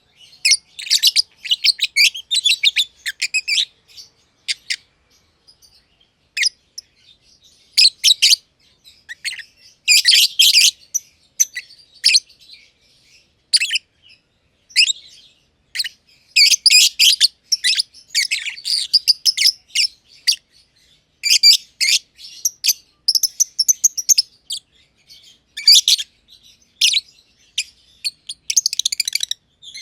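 Two masked lovebirds (green and green pied personata) chirping in quick, high-pitched bouts of short calls, with brief pauses between bouts, the longest about four to six seconds in.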